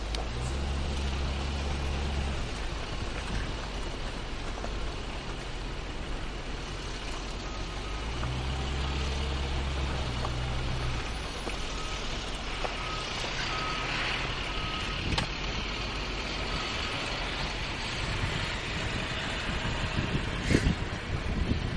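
A car driving on a snowy road: steady road and engine noise with a low drone that comes and goes. A run of short, even beeps sounds about halfway through, and a few thumps near the end.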